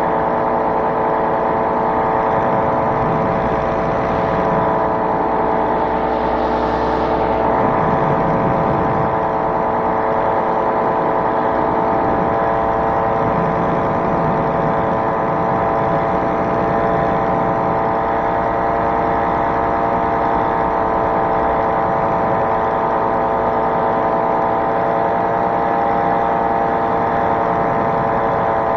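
Small light-aircraft engine running steadily in flight at a constant speed, its note holding the same pitch throughout.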